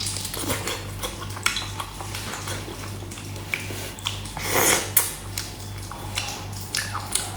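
Cutlery and dishes clinking in irregular sharp clicks, with a longer, louder scraping burst about four and a half seconds in, over a steady low electrical hum.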